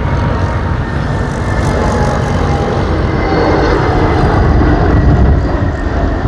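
Jet airliner passing: a loud rumbling engine noise that swells to a peak near the end, with faint whining tones slowly falling in pitch.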